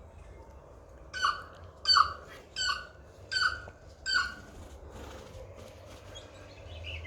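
Tui calling: five similar notes in an even series, about one and a half a second, then a pause.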